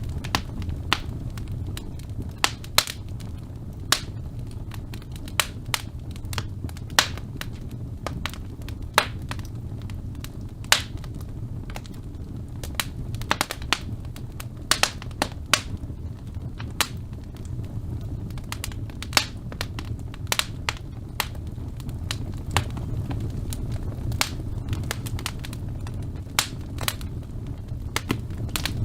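Wood fire burning in a fireplace: a steady low rumble of the flames with sharp, irregular crackles and pops throughout.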